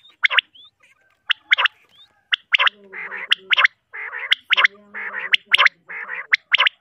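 Common quail calling: sharp, clipped notes in quick groups of two or three, repeated about once a second, the liquid 'wet-my-lips' call of the male. From about three seconds in, a rougher, buzzy calling fills the gaps between the phrases.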